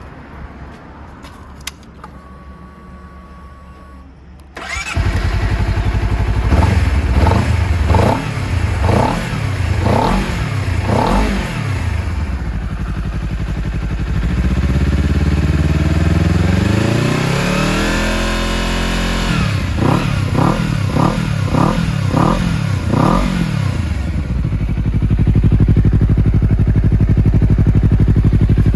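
Honda CBR250RR parallel-twin engine through a Moriwaki slip-on muffler, started about four and a half seconds in after a few quiet clicks. It is blipped about six times, idles briefly, is revved once slowly up high and back down, blipped about six more times, then settles into a steady run.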